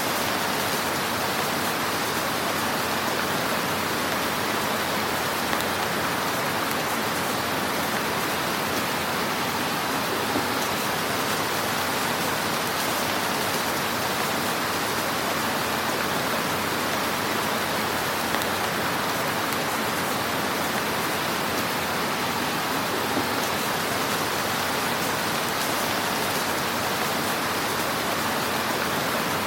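Fire in a fireplace: a steady hiss with a few faint, scattered crackles.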